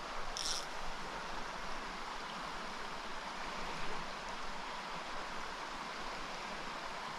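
Small mountain stream running over rocks: a steady rush of water, with one brief high hiss about half a second in.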